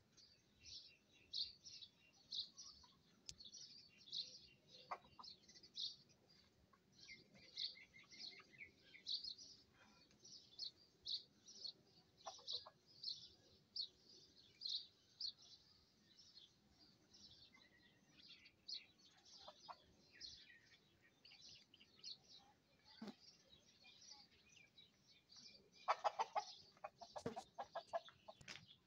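Faint, steady chirping of small birds, about two short high chirps a second. Near the end comes a louder burst of chicken clucking.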